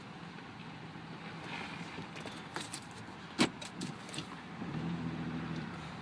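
2004 Buick Rendezvous's 3.4-litre V6 running at a steady low hum, with a few light clicks and one sharp click about halfway through. The engine hum swells briefly near the end.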